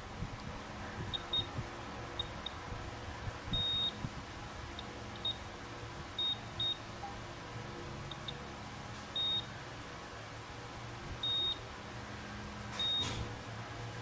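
Multimeter beeping as its probes touch points on a phone's circuit board: short, high, same-pitched beeps at irregular intervals, some quick blips or pairs and a few held for about a third of a second. A steady low hum runs underneath.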